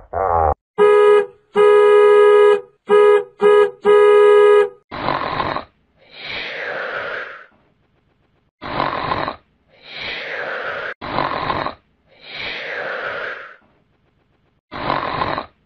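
A comedy sound-effect horn honks five times in a short-long-short-short-long rhythm. Then comes a cartoon snoring effect: slow, rasping snores alternate with exhales that slide down in pitch, repeating at breathing pace.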